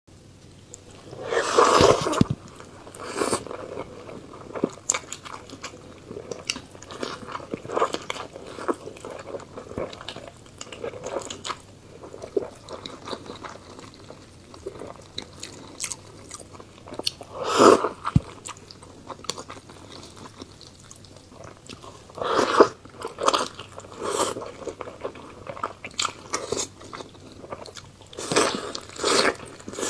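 Close-up eating sounds of a person eating steamed fish, chicken curry and rice: steady chewing with many small clicks and smacks, and a few louder bites, about a second in, near the middle, and twice near the end.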